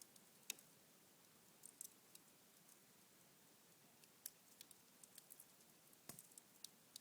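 Cherry-wood fire burning down to embers in a fireplace: faint, scattered crackles and ticks, a handful of sharp pops spread irregularly over a few seconds.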